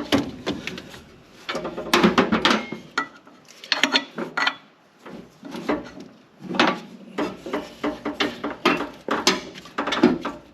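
Irregular clinks, knocks and rattles of hand tools and metal as the clamp on a truck turbocharger's drain hose is worked loose.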